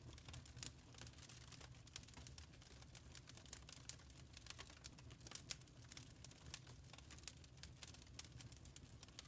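Wood fire crackling faintly: irregular small pops and snaps over a steady low rumble.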